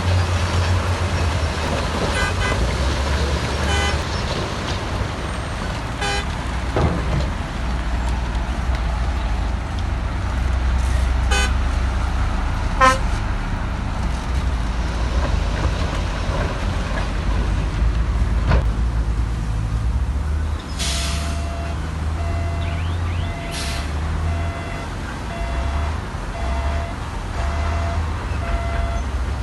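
Heavy diesel earthmoving machinery running with a steady low rumble, with scattered sharp knocks and clanks. About two-thirds of the way in, a reversing alarm starts beeping about once a second.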